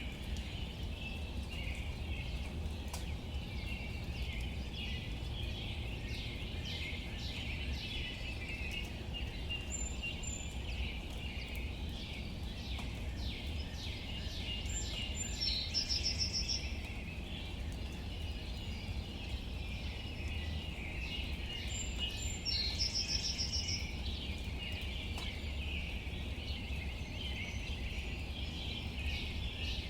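Outdoor ambience with many birds chirping and calling over a steady low rumble and background hiss. A short, high, buzzy trill repeats about every seven seconds.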